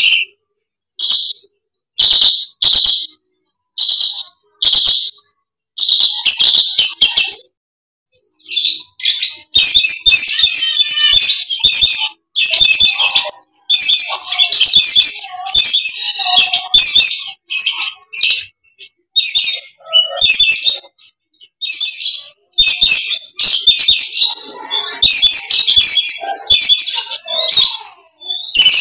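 Lories screeching. First comes a string of short, sharp, high calls about one a second, then from about nine seconds in a fast, dense run of shrill chattering screeches in clumps with brief gaps.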